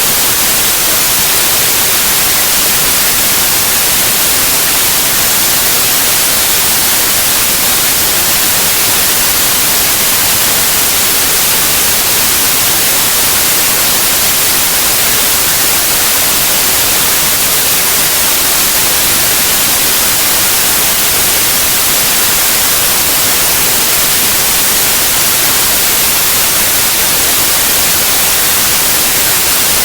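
Steady, loud white noise: an even hiss, strongest in the treble, with no changes or events.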